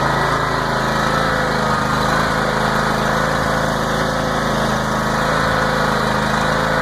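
John Deere X300 lawn tractor engine idling steadily shortly after a cold start in freezing weather, the automatic choke in use.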